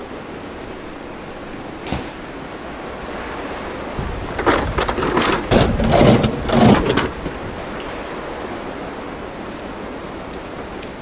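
Rainstorm: a steady hiss of heavy rain, with a louder, irregular burst lasting a few seconds near the middle.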